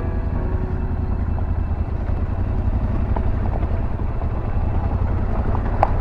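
Yamaha Ténéré 700's parallel-twin engine running steadily at low trail speed, heard from on board the bike. There is a sharp click about halfway through and another near the end.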